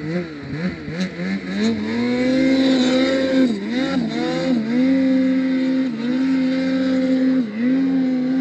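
Snowmobile engine revving up and then held at high revs under throttle, its pitch dipping briefly several times as the throttle eases and picks up again.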